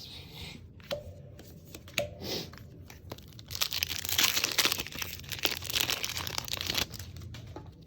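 A plastic Magic: The Gathering booster pack wrapper crinkling and tearing open: a dense crackle lasting about three seconds, after a couple of short clicks.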